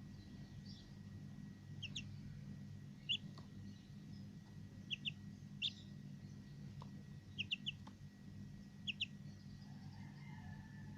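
Small birds chirping faintly: short, high chirps, mostly in quick pairs, every second or two, over a steady low hum.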